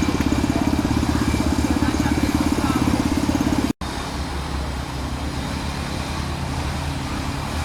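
Small quad bike engine running with a fast, even pulse. The sound cuts off abruptly a little under four seconds in, and a quieter, steadier engine hum follows.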